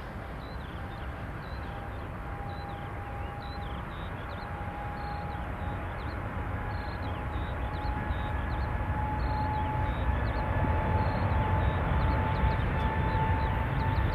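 Jet airliner engines approaching and growing steadily louder: a deep rumble with a steady whine that slowly rises in pitch.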